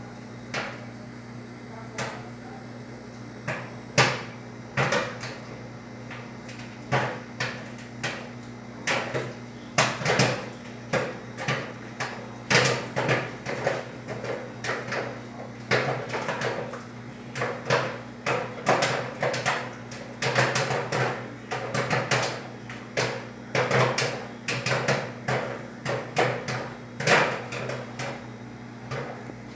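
Electrolux ME41X microwave oven running with a steady hum, while many irregular sharp pops or knocks sound, scattered at first and coming much faster from about ten seconds in.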